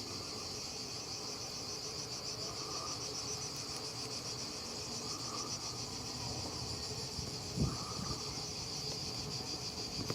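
Insects chirring in a steady, high continuous drone with a fast fine pulse, with a single low thump about three-quarters of the way through.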